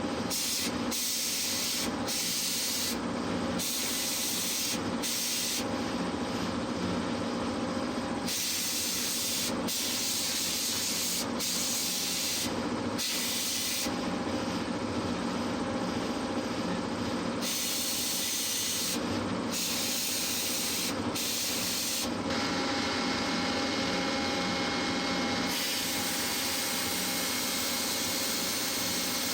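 Steady hissing of a workshop tool at work on the winch parts, with a faint hum under it, heard as several edited stretches with sudden cuts between them.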